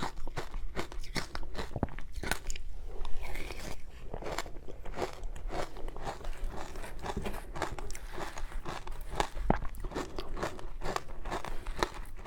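Close-miked bites and chewing of matcha-powdered shaved ice, a dense run of irregular crackly crunches, loudest about three seconds in.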